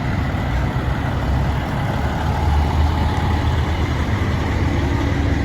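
Vehicle engines idling as a steady low rumble, with no sharp changes.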